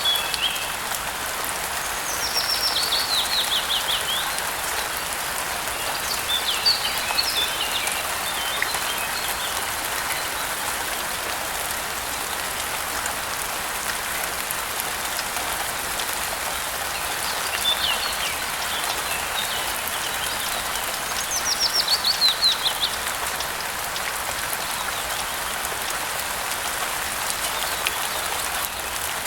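Steady rain falling, with birds chirping over it. Twice, about two seconds in and again past the twenty-second mark, a bird gives a quick series of high, falling notes, with scattered chirps in between.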